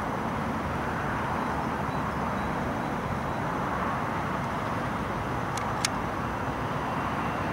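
Steady outdoor background noise, with two short sharp clicks about five and a half seconds in.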